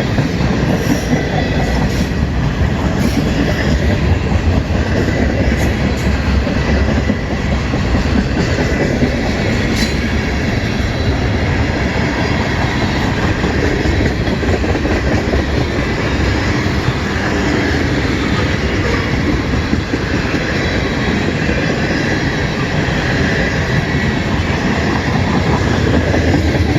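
Canadian National freight train's cars rolling past: a steady rumble of wheels on rail with clicking over the rail joints and a faint, thin wheel squeal.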